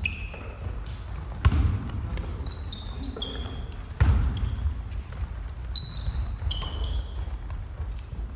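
Basketball shoes squeaking in short, repeated high chirps on a gym floor during play, with a couple of sharp thuds of the ball, about one and a half and four seconds in.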